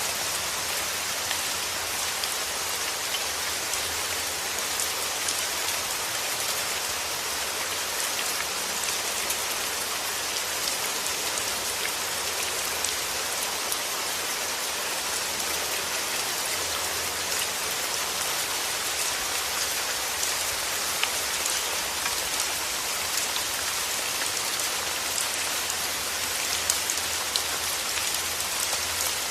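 Steady rain falling, an even hiss with individual drops ticking on a surface here and there.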